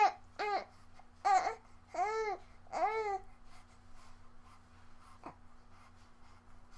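A baby babbling: about five short cooing calls, each rising and falling in pitch, in the first three seconds, then a pause.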